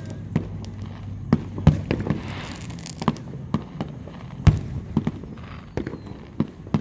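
Fireworks going off in quick succession: about a dozen sharp bangs at irregular intervals, with a short crackling hiss about two and a half seconds in.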